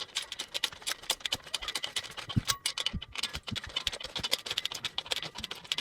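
Hand tools working metal screw hardware: a rapid, uneven run of light clicks, with a few duller knocks about two and a half to three and a half seconds in.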